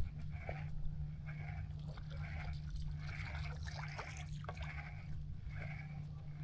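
An animal calling over and over in short nasal calls, roughly two a second, over a steady low hum.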